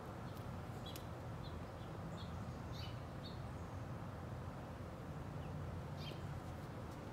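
Birds chirping outdoors, a scattering of short high calls through the first half and another about six seconds in, over a steady low background rumble.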